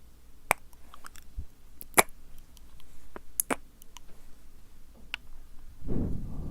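Wet ASMR mouth sounds right at the microphone: a scatter of sharp tongue-and-lip clicks and smacks, two of them louder. Near the end comes a breathy rush of air, a close breath or blow into the mic.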